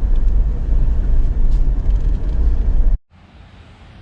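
Steady low road rumble of a moving vehicle heard from inside, which cuts off suddenly about three seconds in, leaving only a faint hiss.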